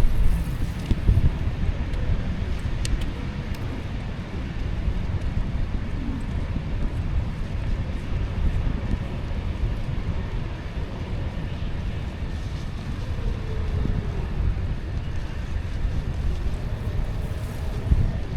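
Wind rumbling on the microphone outdoors: a steady low buffeting noise with a few faint ticks.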